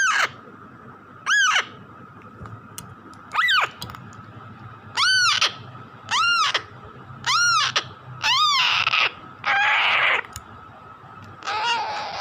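Baby Alexandrine parakeet squawking loudly over and over, about nine calls each rising then falling in pitch, the last few harsher and raspier: a chick's begging calls for food.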